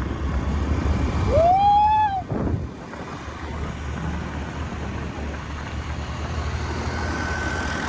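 Scooter engine running steadily under way, a low rumble. About a second and a half in there is one short pitched call that rises and then falls.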